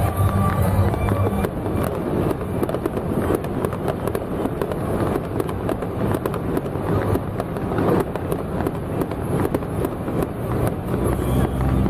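Fireworks crackling in a dense, rapid run of sharp cracks throughout. A low steady hum sits under the first second and comes back near the end.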